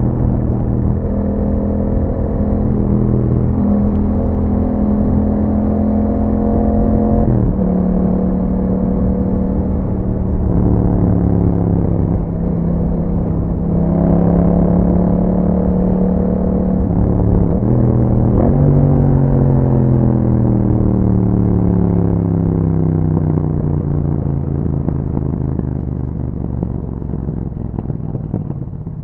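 Yamaha MT-07's 689 cc parallel-twin engine through an Akrapovič exhaust, pulling under acceleration with two upshifts, about 7 and 17.5 seconds in, each a sudden drop in revs. After the second shift the revs fall steadily and the sound grows quieter as the throttle is rolled off.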